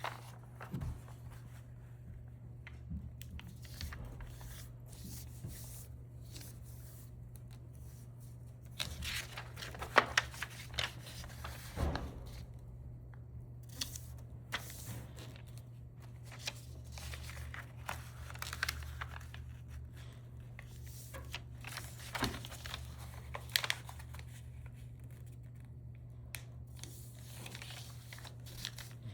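Crinkly material being handled, with irregular rustling, crinkling and tearing sounds and a few sharp clicks, over a steady low hum.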